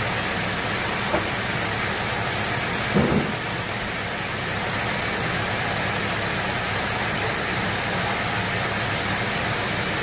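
Sawmill machinery running steadily with a loud, even hiss and hum, and a single brief knock about three seconds in.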